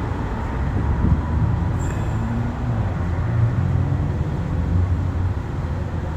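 Steady low vehicle rumble, like road noise, with no clear breaks or distinct events.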